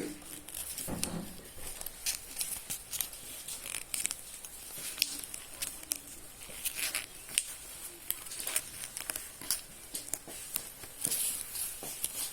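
A sheet of paper being folded and creased by hand, with irregular crinkles, rustles and sharp crackles as the folds are pressed.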